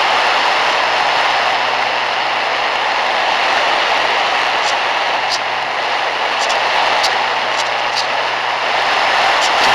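Radio-controlled model airplane in flight: a steady rushing of motor, propeller and airflow, with a few faint short clicks in the second half.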